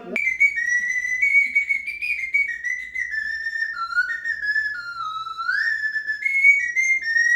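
Ebonite slide whistle (a Russian folk piston flute, the plunger riding on a metal rod) being played: a single high whistling line that steps between notes and slides smoothly up and down in pitch.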